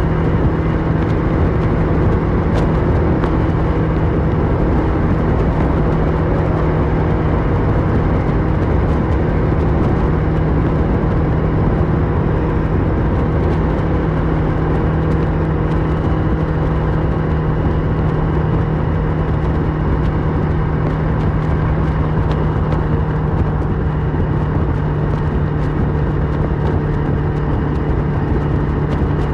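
Kawasaki Versys 650 parallel-twin engine running through a Mivv slip-on exhaust while riding at a steady speed, its engine note holding even, over a dense rush of wind and road noise.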